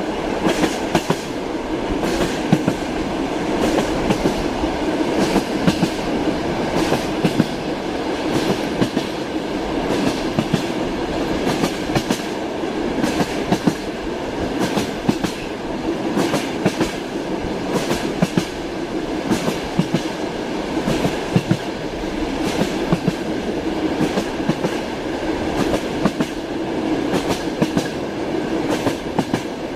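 Running train's wheels clacking over the rail joints, repeated clacks over a steady rumble.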